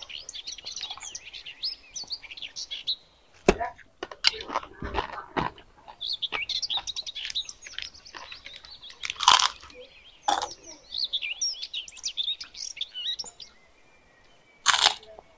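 Small birds chirping and twittering in quick high notes, with a few short sharp crackles, the loudest about nine seconds in and near the end.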